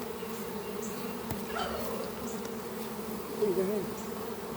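Many honeybees buzzing in a steady, dense hum around a hive that is being split open, the bees disturbed by the work.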